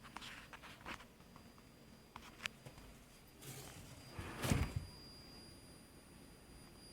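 Computer monitor giving off a thin, steady, high-pitched electronic whine, the noise fault being shown. A few clicks and a louder rustling knock come about four and a half seconds in, after which the whine grows louder and a second, higher tone joins it.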